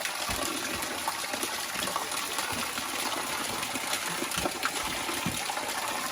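Hillside spring water running with a steady rush.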